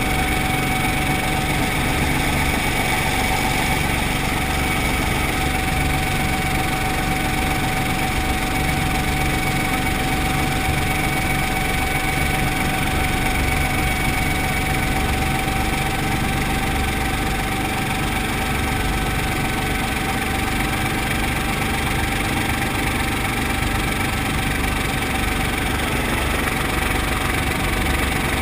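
Brantly B2B helicopter's four-cylinder Lycoming piston engine and rotor running steadily, a constant pulsing drone with a steady high whine over it.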